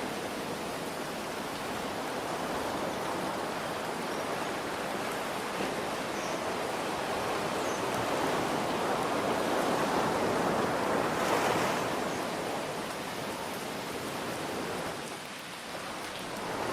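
Ocean waves washing in and drawing back in slow swells, over a steady hiss of rain. One wave builds to its loudest about two thirds of the way in; the surf then ebbs to a lull before the next one rises near the end.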